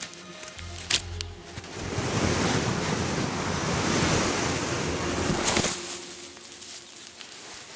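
A rushing, wind-like noise swells about two seconds in, holds for a few seconds and then dies away. There is a sharp click near the start and another just before it fades.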